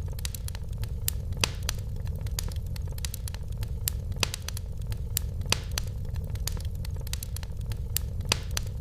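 Wood fire burning in a fireplace: a steady low rumble with frequent irregular crackles and a few sharper pops.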